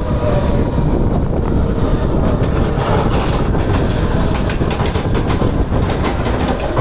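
Mumbai suburban EMU local train running along the track, heard from its open doorway: a loud steady running rumble with the wheels clicking and clacking over the rails, the clacks coming thickest in the middle of the stretch.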